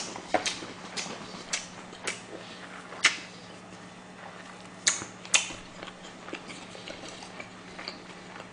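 Close-miked chewing with wet mouth clicks and lip smacks, about two a second at first. The sharpest smacks come about three seconds in and twice about five seconds in.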